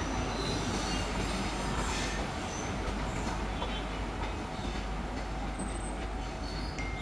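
Passenger coaches rolling past close by, a steady rumble of wheels on rail with a few brief high wheel squeals.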